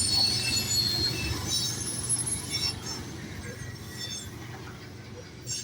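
Train wheels squealing in several high, shifting tones over the low rumble of rolling rail cars; the squeal dies away about halfway through and the rumble slowly fades.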